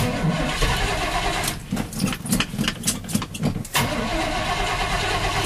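Carbureted Chevy 350 small-block V8, breathing through stock manifolds and dual Flowmaster 40 series mufflers, cranking and firing up on a cold start after sitting overnight, then running. It runs unevenly for a couple of seconds before settling to a steadier run near the end.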